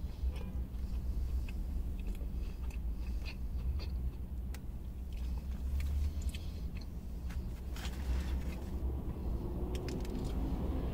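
A person biting and chewing mouthfuls of a McChicken sandwich: close, crunchy chewing with many small clicks and crackles, over a steady low rumble.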